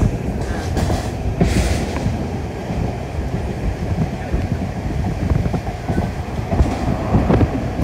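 Passenger coach of a Class 13 diesel train running at speed, heard from inside the car with its windows open: a steady rumble of wheels on the track with irregular knocking and rattling. A brief rushing hiss comes about a second and a half in.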